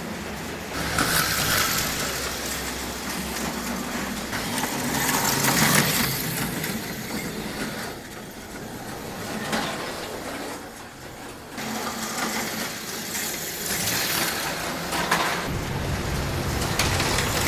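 HO-scale Auto World Thunderjet slot cars racing on a plastic slot track, their small electric motors buzzing and the cars whirring louder and fading again several times as they pass close by.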